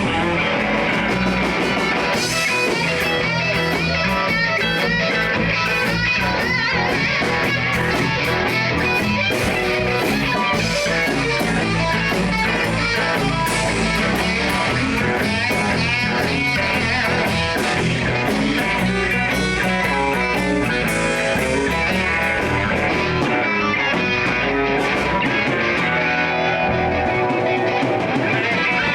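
Live blues-rock band playing: electric guitar lead over bass and drum kit.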